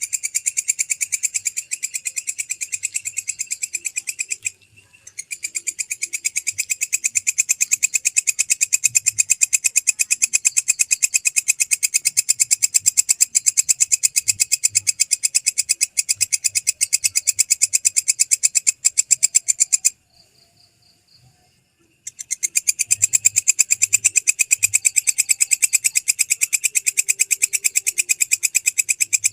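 Belalang kekek katydid calling: a loud, fast, even train of high-pitched chirping pulses, broken by a brief pause about four and a half seconds in and a pause of about two seconds about twenty seconds in.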